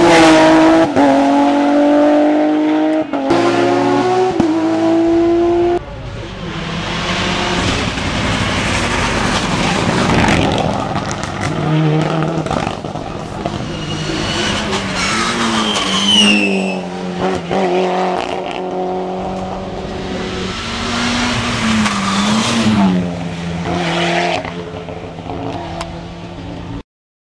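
Hill-climb race car engine accelerating hard through quick upshifts, its pitch climbing and then dropping at each gear change, then running on at varying revs as it moves away. A short tyre squeal comes about halfway through, and the sound cuts off abruptly near the end.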